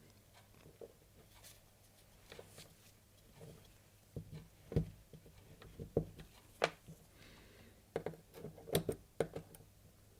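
Irregular small metallic clicks and taps of forceps gripping and turning the 15 mm axle nut on a bicycle pedal, sparse at first and more frequent in the second half, over a faint low hum.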